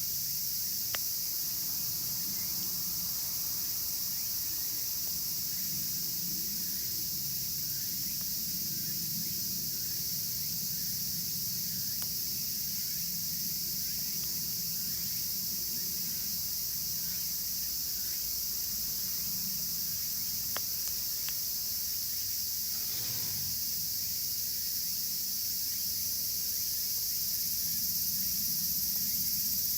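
A steady, high-pitched chorus of cicadas, with a few sharp pops and crackles from a wood campfire in a fire pit.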